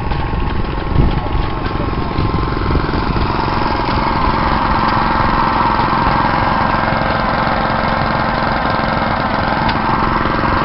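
Vintage stationary engine running steadily with a fast, even chugging beat; a higher whirring noise grows louder from about three seconds in.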